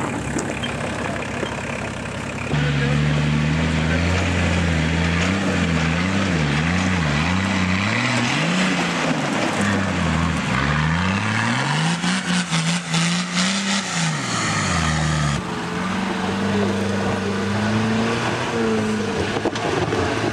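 Off-road 4x4 engine labouring up a rocky slope, its revs rising and falling over and over. After a cut, an engine runs at a steady speed, over a constant rough noise.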